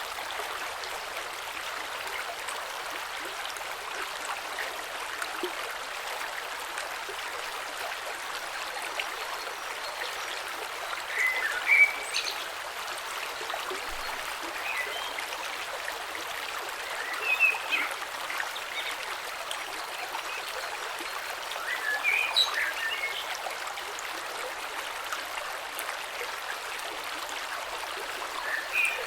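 Shallow creek flowing steadily over stones, a continuous water rush. A bird chirps briefly about five times across it, loudest about twelve seconds in.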